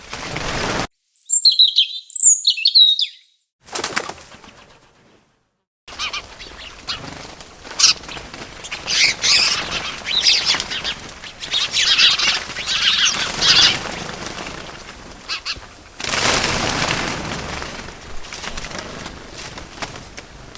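Small birds chirping in quick high bursts, mixed with bursts of wing flapping. A few clean chirps ring out against silence near the start, and denser chirping follows through the middle.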